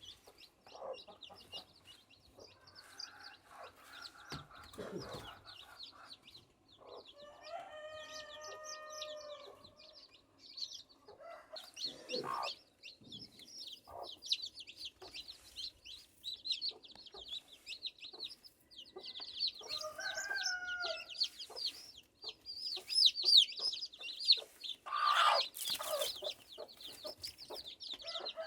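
Chickens clucking over steady high-pitched cheeping, with a rooster crowing about eight seconds in and another drawn-out call around twenty seconds. A louder burst of rustling noise comes near the end.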